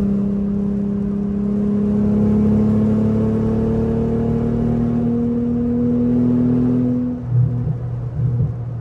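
Mercedes E320's 3.2-litre V6 pulling steadily under acceleration, heard from inside the cabin, its note rising slowly in pitch. About seven seconds in the note breaks off and gives way to a lower, uneven rumble.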